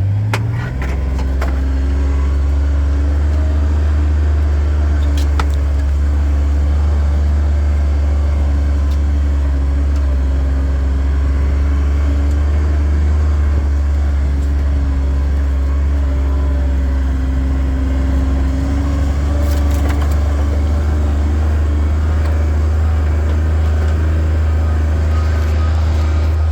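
A vehicle's engine running steadily at low speed while driving on a dirt road, a deep even drone, with a few brief clicks or knocks about half a second in, around five seconds in and near twenty seconds in.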